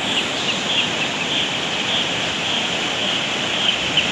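River in flood, swollen after a day and night of rain, its fast water rushing with a steady, even noise. Faint short high chirps sound over it.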